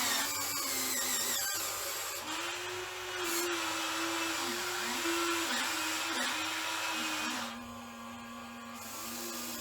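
Small electric motor whine, its pitch repeatedly sagging and recovering as it is loaded, typical of an RC hydraulic excavator's pump working its hydraulics. Fainter high-pitched servo-like whines glide up and down early on.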